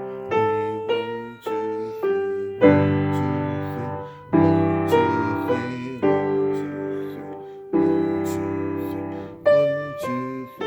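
Piano playing a blues piece: chords struck every second or two, each left to ring and fade before the next.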